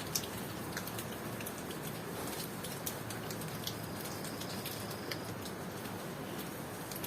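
Steady tropical rain falling, with sharp drops ticking close by, and a cricket trilling high for about a second a little past the middle.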